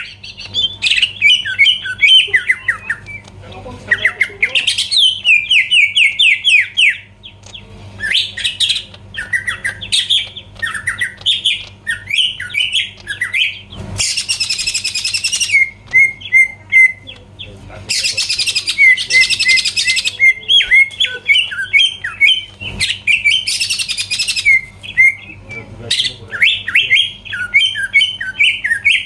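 Green leafbird (cucak ijo) singing loudly and almost without pause: fast, varied runs of chirps and trills. The song is broken three times by harsh, rasping bursts in the middle stretch.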